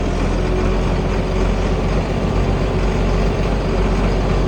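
International 1566 tractor's turbocharged six-cylinder diesel running steadily under load while pulling a field cultivator, with a steady hum and no change in engine speed.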